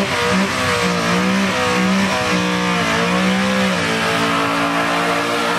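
Modified 5th-generation Camaro V8 revving through a burnout, rear tyres spinning. The engine pitch rises and falls about once a second, then holds steadier for the last couple of seconds.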